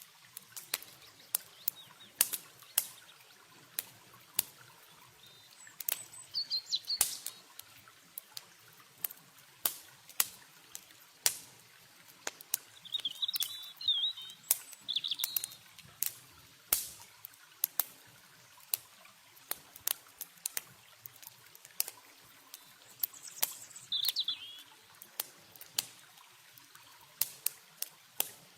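Campfire crackling with many irregular sharp pops, over a faint wash of river water. Small birds chirp in brief bursts three times: about six seconds in, around thirteen to fifteen seconds, and near twenty-four seconds.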